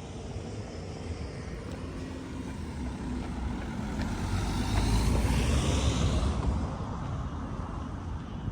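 A motor vehicle passing by: a low rumble that builds to its loudest about five seconds in, then fades.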